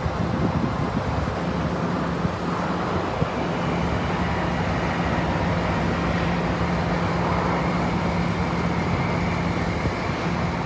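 Excavator engine running steadily, a constant low hum with an even level throughout.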